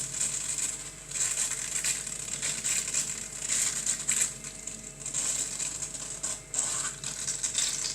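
Bottle of shaken, half-frozen Coke crackling and fizzing in repeated short bursts, about one a second, as it is handled to keep it from foaming over.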